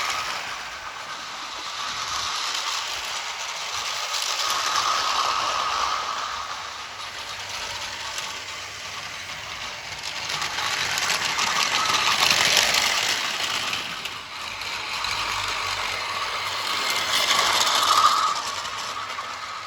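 Märklin My World battery-powered toy train running: the whirr and rattle of its small geared motor and plastic wheels on the track, swelling and fading several times.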